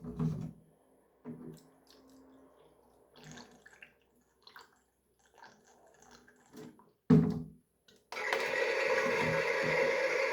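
Knocks and clatter of a plastic toy washing machine being handled, then about eight seconds in its small motor switches on and runs steadily, churning water in the tub.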